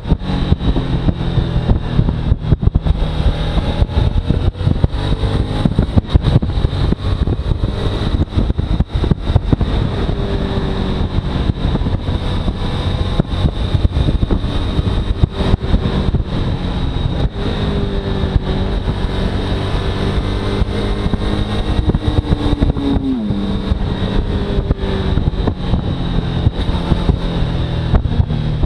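Suzuki V-Strom's V-twin engine running under way, its pitch rising and falling with the throttle and dropping clearly about 23 seconds in, under heavy wind buffeting on the microphone.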